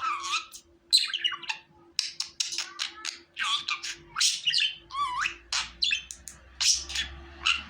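Budgerigar chattering in a quick, continuous run of chirps, squawks and warbled whistles with many rising and falling pitch sweeps.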